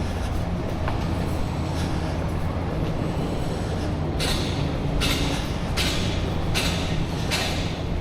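Steady wind rumble on a neck-mounted action camera's microphone while riding a bicycle. From about halfway, five short hisses come in a row, each less than a second apart.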